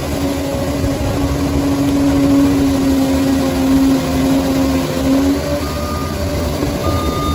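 Bulldozer's diesel engine running, a steady low drone with a held humming tone that shifts about five seconds in.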